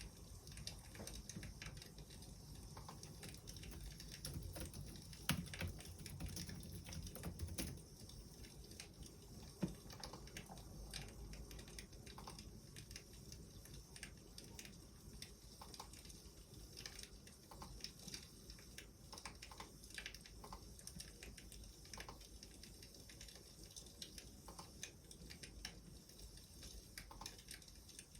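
Faint crackling of a wood fire, with small irregular pops and snaps, and a couple of louder knocks about five and ten seconds in.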